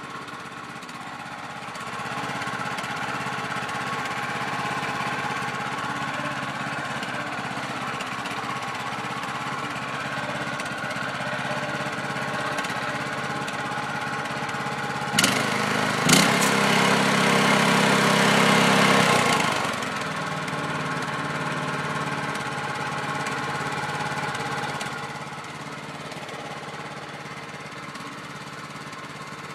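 212cc single-cylinder small engine running steadily at idle. About halfway through there are two sharp clicks, and the engine is louder for a few seconds.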